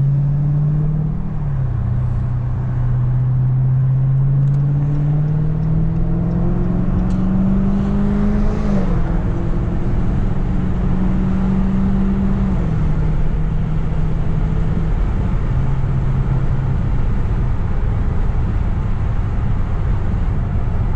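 Dodge Scat Pack's 6.4-litre HEMI V8 heard from inside the car. It pulls up through the gears with a slowly rising pitch that drops sharply at each upshift, about a second in and again around nine seconds. It then steps down and runs steadier and lower as the car eases off and cruises.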